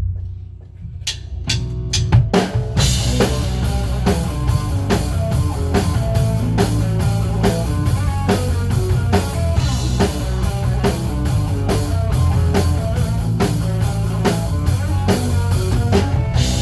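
Live band playing a rock song's instrumental intro: a few drum hits about a second in, then a full steady groove with drum kit, bass and guitar.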